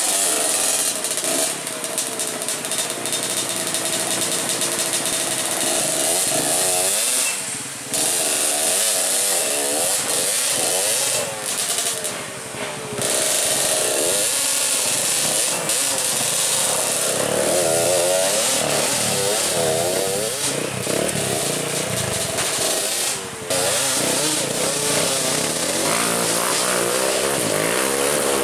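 Trail motorcycle engines revving hard, the pitch rising and falling with the throttle, with the throttle briefly shut off three times.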